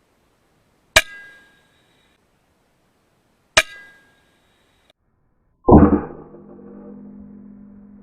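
Two sharp metallic cracks with a brief ringing tail, about two and a half seconds apart: shots from a .22 PCP air rifle. From a little before six seconds in, a loud low droning tone sets in and holds.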